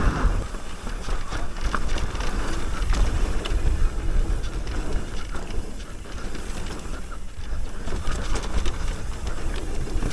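Mountain bike descending a rough dirt trail: wind buffeting the microphone as a steady low rumble, with the bike rattling and knocking over bumps as many short sharp clicks.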